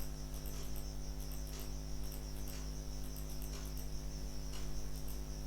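Background noise with no speech: a steady low hum and, above it, a steady high-pitched whine or trill, with faint ticks about once a second.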